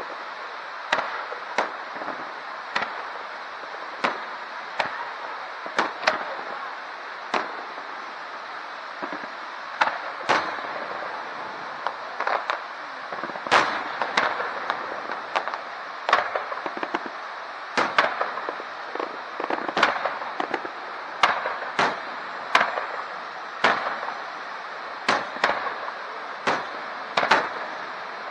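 Fireworks display: aerial shells bursting in a string of irregular sharp bangs, about one or two a second and bunched in places, over a steady background noise.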